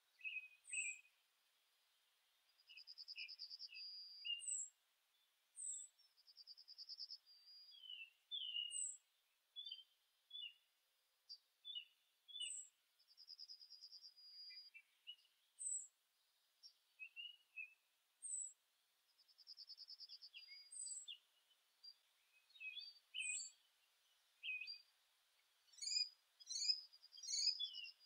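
Faint songbirds calling outdoors: many short, high chirps, with a rapid one-second trill every few seconds and a quick flurry of chirps near the end.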